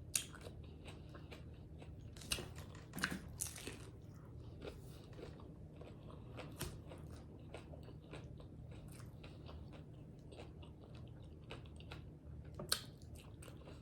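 Tacos being bitten and chewed close to the mouth, with crisp crunches here and there, the loudest about two and three seconds in and again near the end.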